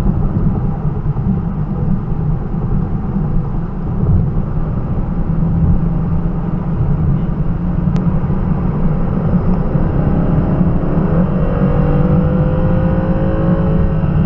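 2019 Aston Martin Vantage's twin-turbo V8 under way, a steady low rumble of engine and road noise. About ten seconds in, the engine note climbs as the car accelerates.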